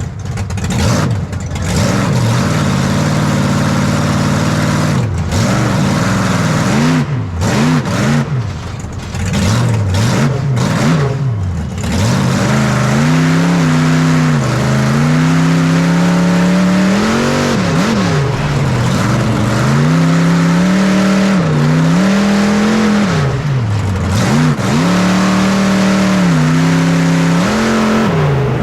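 Monster truck engine revving again and again: short blips of the throttle over the first twelve seconds or so, then held at higher revs with repeated dips and rises.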